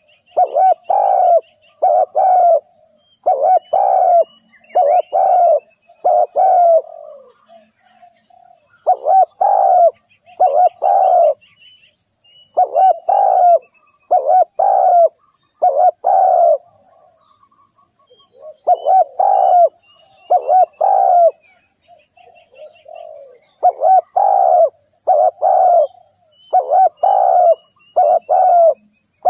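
Spotted dove cooing, a decoy bird's call: repeated phrases of three to six low coos with short pauses between them. Fainter chirping of small birds and a steady high hiss run underneath.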